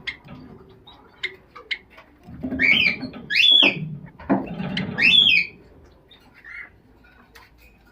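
Zebra finches calling: two loud clusters of short, squawky calls a couple of seconds in, with small scattered chirps and ticks around them.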